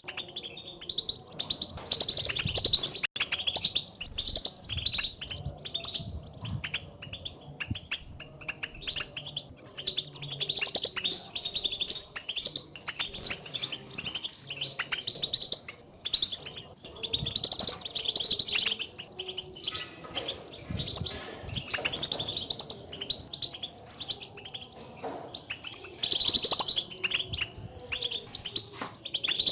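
European goldfinches giving their 'batbata' contact calls: a dense run of quick, high twittering chirps.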